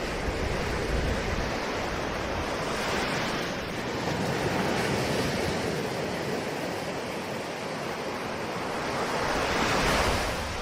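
Ocean waves washing onto a shore in a continuous rushing hiss, swelling and easing, with one wave building to the loudest surge near the end.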